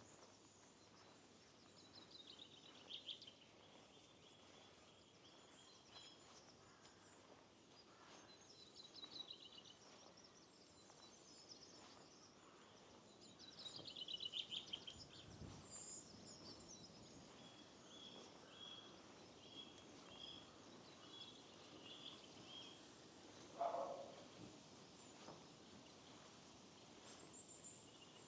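Faint birdsong from several small birds: high trills, one falling trill about halfway through, then a run of evenly repeated chirps. A single lower, louder call stands out near the end.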